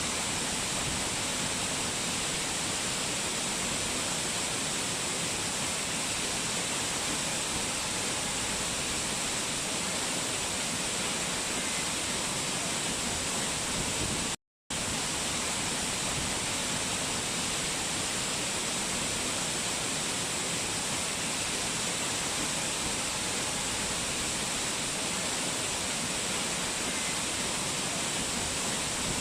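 Steady rush of fast-flowing water from a mountain waterfall, an even hiss with no other sounds. It drops out for a split second about halfway through, then resumes unchanged.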